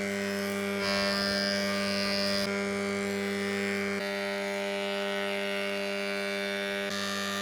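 A small electric motor, as in a handheld power tool, running at a steady speed with a constant hum. Its tone changes abruptly a few times.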